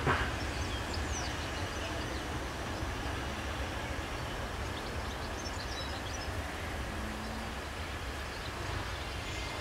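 Diesel railcar rolling away into the station: a steady low rumble, with a short sharp knock right at the start and a few faint bird chirps.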